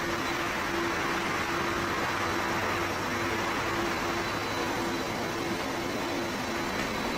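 Aircraft engine noise: a steady rushing hiss with a faint hum underneath that breaks on and off.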